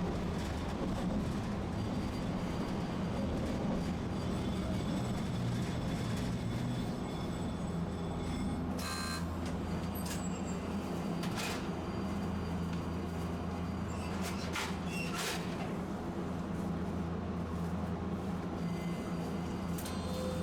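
Tosaden streetcar running, a steady low hum of motor and wheels on rail. A few short clicks or rattles come partway through.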